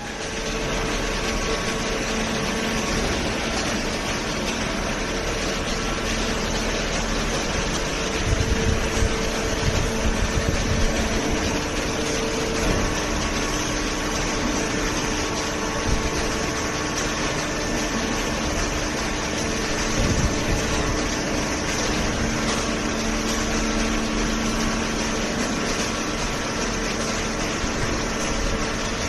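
Cardboard shredding and baling machinery running steadily with a constant hum and rush, with a cluster of louder knocks about eight to eleven seconds in and another near twenty seconds.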